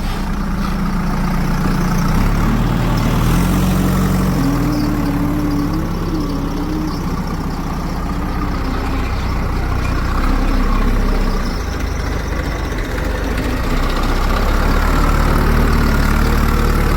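Heavy diesel engine running steadily, its pitch rising and falling briefly a few times.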